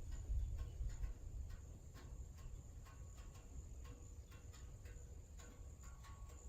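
Faint steady chirring of insects such as crickets, with scattered light clicks and ticks and a low rumble that fades after the first second.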